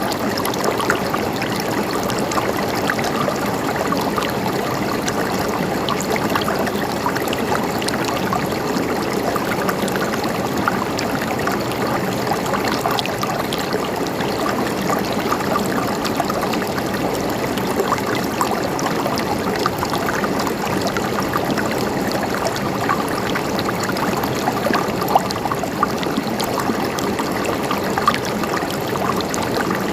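River water flowing steadily over rocks, a continuous gurgling rush with small splashes and droplet ticks.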